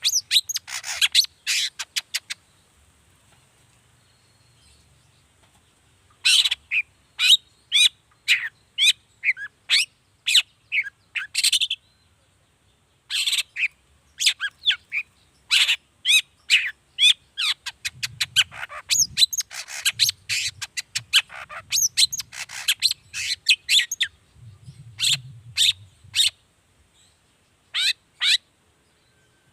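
Long-tailed shrike (cendet) singing: fast runs of short, sharp, high notes and chatter in bursts, broken by pauses of a few seconds.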